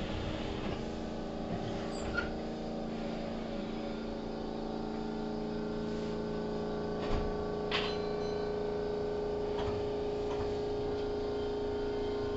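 Inside a Keihan 3000 series electric train car: a steady hum of even tones, with two short knocks about seven and eight seconds in.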